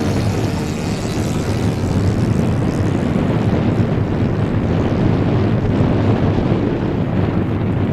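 Strong wind buffeting the microphone, with the drone of a radio-controlled seaplane's engine fading away early on.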